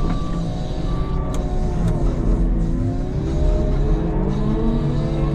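Wheel loader's diesel engine working under load while moving snow, its pitch dropping and then climbing as it revs up again. A reverse alarm beeps twice near the start.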